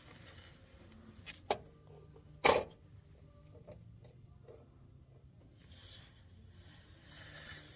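A few short sharp clicks, then a single louder knock about two and a half seconds in, followed by some small ticks.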